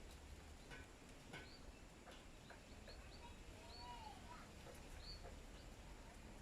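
Faint chirps of small birds: scattered short high calls, with a lower, arched two-note whistle about four seconds in, and a few faint clicks.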